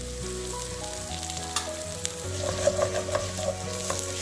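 Raw rice and turmeric frying in hot oil in a pot, sizzling steadily; from about two seconds in a utensil stirs through the grains, scraping and clicking against the pot.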